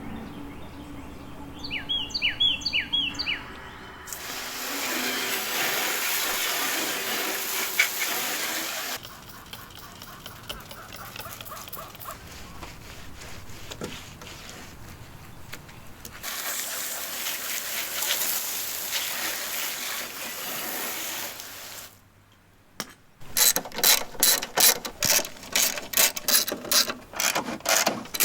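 A few short bird chirps, then stretches of steady scraping or brushing mechanical noise broken by abrupt cuts. After a brief pause near the end comes a fast run of sharp ratchet-like clicks, about four a second.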